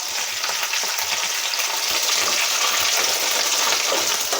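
Ginger, garlic, green chillies and black pepper sizzling steadily as they fry in hot oil in a kadai.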